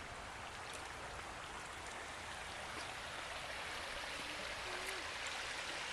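Steady rush of running water from a stream, slowly growing a little louder.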